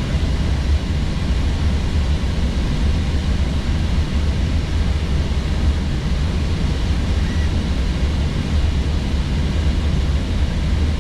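Steady flight-deck noise of an Airbus A321neo descending on approach: an even low rumble of engines and airflow under a steady hiss, with no change in level.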